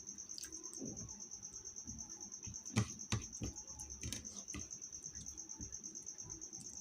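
A cricket chirping in a steady, rapid high trill, with a few short clicks and knocks about halfway through.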